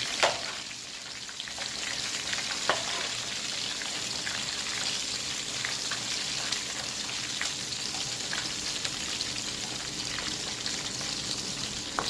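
Doritos-coated chicken wings deep-frying in oil, a steady sizzle with scattered crackles. A sharp click sounds just after the start and another a few seconds in.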